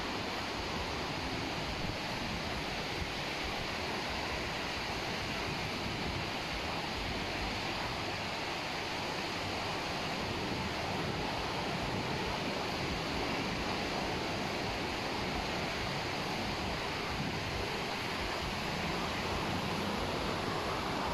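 Steady wash of surf on a beach, an even hiss with no distinct events.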